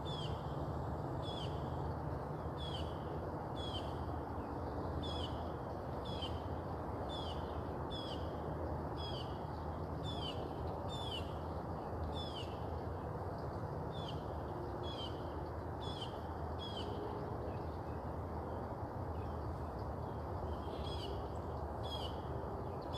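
A bird calling repeatedly, short high notes that slide downward, about one a second, with a pause of a few seconds past the middle, over a steady low background rumble.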